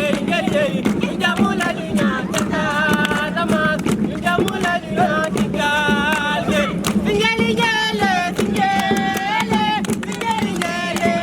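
A group of young people singing a camp song together without instruments, voices holding and bending long notes, with sharp claps or knocks running through it.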